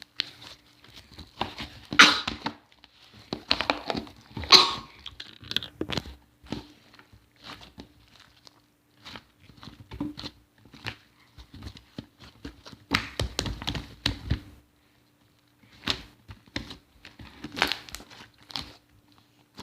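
Slime being squished, pressed and stretched by hand: irregular crackling and popping clicks with louder squelchy bursts several times, over a faint steady hum.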